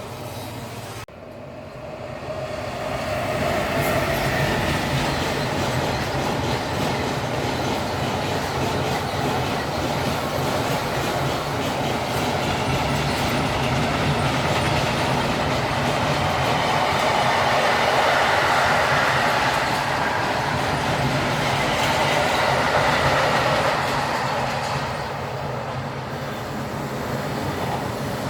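A train running past: after a sudden dip about a second in, steady wheel-on-rail noise builds up over the next few seconds. It stays loud with some ringing tones, then eases somewhat near the end.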